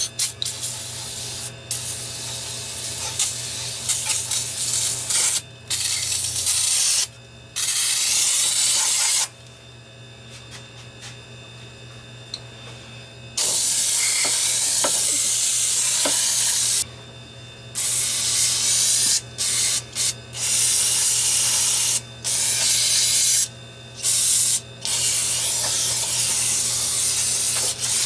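Aerosol spray can hissing in repeated bursts, some about three seconds long and others short puffs, with brief pauses between them.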